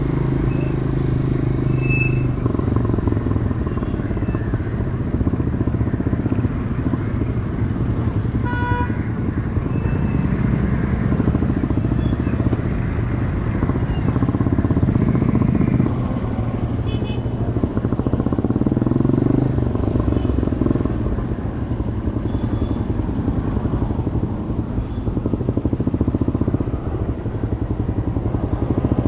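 Demak DTM 150 motorcycle running on its stock exhaust while riding in traffic, the engine note swelling and easing with the throttle. A brief pitched beep sounds about eight and a half seconds in.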